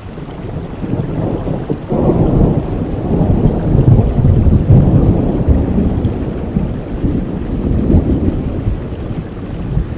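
Steady rain with a long, low roll of thunder that swells about two seconds in and slowly fades toward the end.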